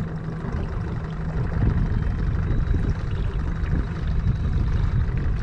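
Wind buffeting the microphone: a gusty low rumble that gets louder about a second and a half in.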